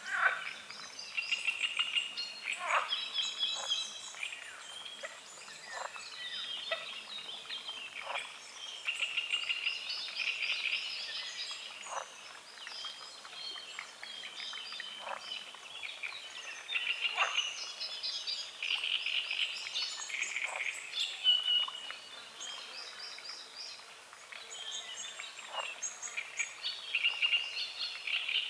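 Dawn chorus of many birds singing over a lake, mixed with trains of rapid croaks from frogs. A short downward-sliding call cuts through every two to three seconds.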